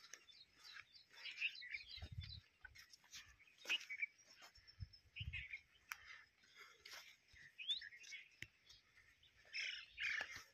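Small birds chirping and twittering in many short, high calls, one of them a quick rising call near the end. A couple of low thumps come about two and five seconds in.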